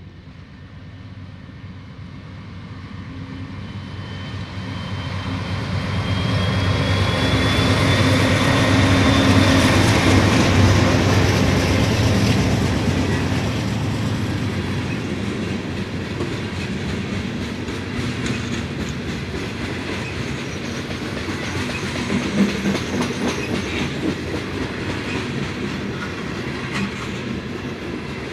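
BNSF diesel freight locomotives approaching and passing, growing louder to a peak about ten seconds in, followed by a string of gondola cars rolling by with a steady clickety-clack of steel wheels on the rails.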